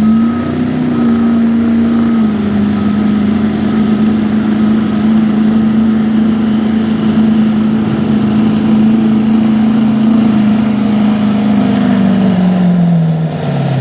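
Diesel 4x4 pickup truck's engine at full throttle pulling a weight-transfer sled: the engine climbs to a high steady pitch within the first second and holds it for about twelve seconds under a thin high whistle, then falls away near the end as the pull stops.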